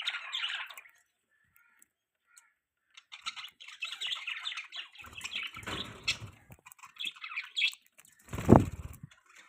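Budgies chirping in quick, busy chatter that stops for about two seconds near the start and then resumes. Two low, dull thumps break in, one about midway and a louder one near the end.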